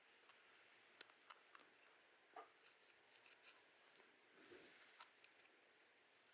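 Faint, scattered sharp clicks and light scratching from close-up massage and hair-play handling, with the loudest click about a second in.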